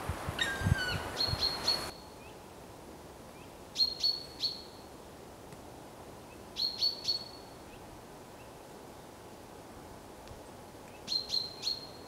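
Bird calling in short bursts of three sharp, high chirps, three bursts a few seconds apart. In the first two seconds there is a louder background with a couple of falling whistles and a few low thuds.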